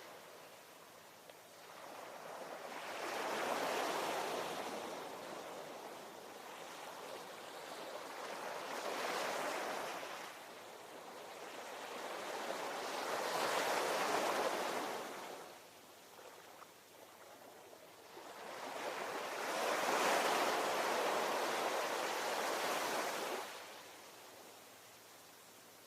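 Ocean waves breaking and washing in, the surf swelling and fading four times, about every five to six seconds. The last and loudest surge cuts off fairly suddenly near the end.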